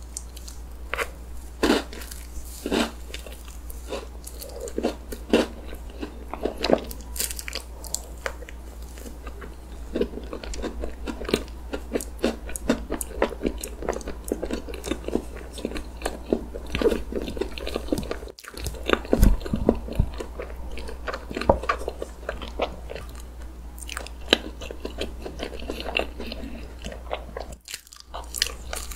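Close-miked chewing of mouthfuls of chocolate layer cake with whipped cream: wet smacking and many sharp, irregular mouth clicks. The sound cuts out briefly twice, about two-thirds of the way in and near the end.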